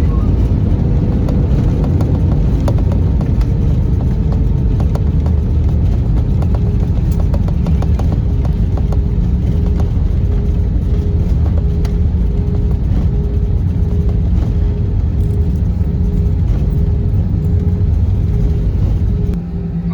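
Airbus A320-200 cabin noise on the landing roll: a loud, steady rumble of engines and airframe with many small rattles and knocks. A faint steady tone sits under the rumble, and the noise eases a little near the end.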